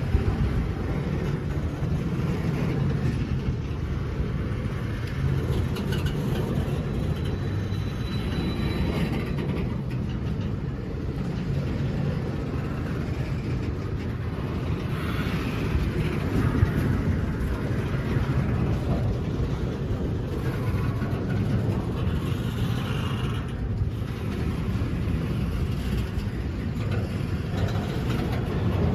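A train rumbling steadily, its low rumble holding at an even level throughout.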